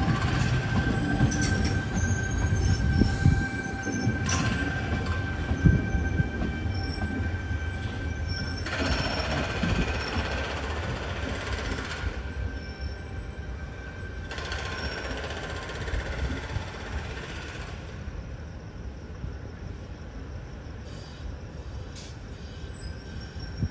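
Tangara double-deck electric train rolling slowly over the yard tracks: a steady rumble of wheels on rail with a thin, steady wheel squeal in the first several seconds and two stretches of hiss later on, the whole growing gradually quieter.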